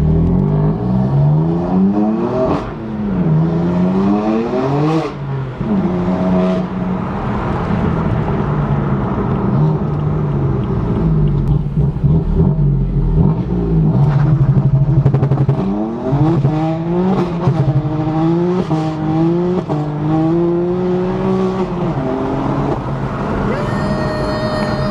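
BMW M4's twin-turbo straight-six heard from inside the cabin, running loud through downpipes on a JB4 tune, revving up hard again and again with the pitch dropping sharply at each gear change. A steady held tone sounds near the end.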